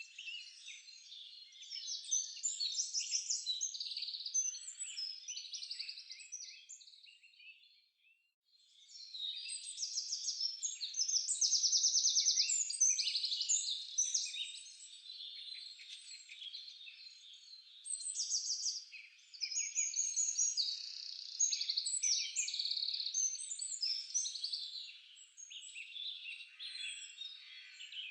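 Several songbirds singing and chirping over one another in a dense chorus of rapid chirps and trills, with a brief lull about eight seconds in.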